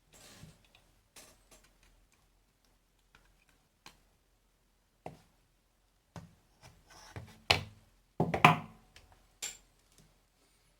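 Scattered clicks and knocks of small hand tools and electronic parts being handled on a workbench, loudest in a quick cluster about three-quarters of the way through.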